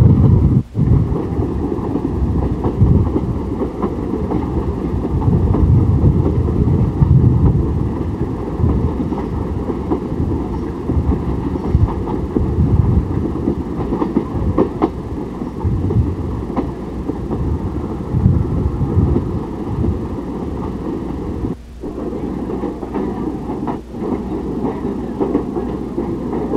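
Steady rumble of a passenger train rolling along the track, heard from an open coach window, with occasional clicks of the wheels over the rails. The sound dips out briefly twice near the end.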